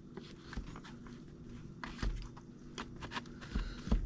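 Light, irregular clicks and taps of a 3D-printed plastic stand and its charging cable being handled and adjusted.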